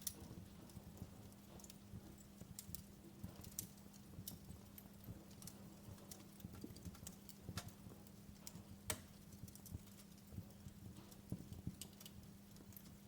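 Wood fire crackling in a fireplace: irregular sharp pops and snaps, one louder pop about nine seconds in, over a soft hiss and a faint steady low hum.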